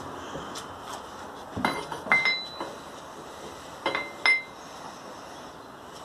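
Metal-on-metal clinks: two pairs of sharp knocks, the second knock of each pair ringing briefly at a high pitch, as steel pipe and metal tools are handled on the workbench.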